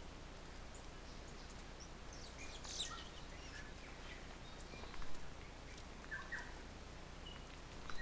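Forest birds calling: scattered short chirps and whistles over a steady low background hiss, with louder bursts of calls about three and five seconds in.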